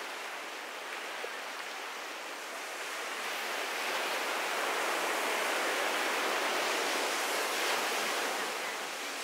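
Ocean surf washing onto a beach, a steady hiss that swells about three seconds in and eases a little near the end as a wave runs up the shore.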